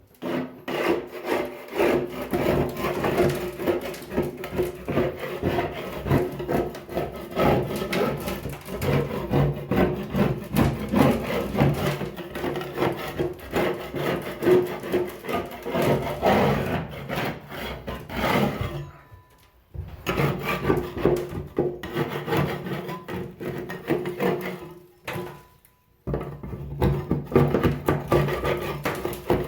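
Paint being scraped off a surface with a scraper in rapid, repeated rasping strokes, with two brief pauses.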